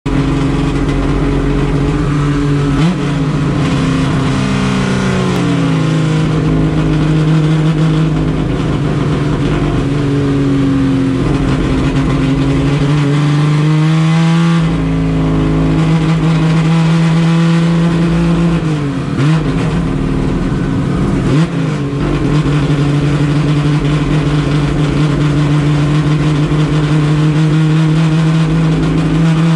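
Car engine running steadily at fairly high revs, its pitch drifting slowly up and down, with several brief drops in revs that pick straight back up.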